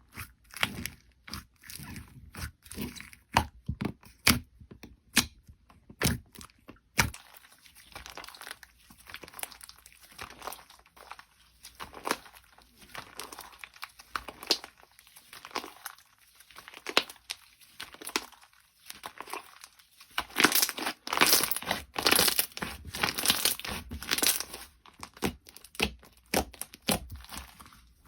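Slime being squeezed and pressed by hand, giving a run of crackling, crinkling pops and crunches, which grow dense and loud about twenty seconds in.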